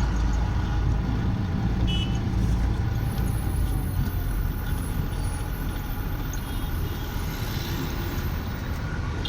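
Truck engine running with a steady low rumble, heard from inside the cab.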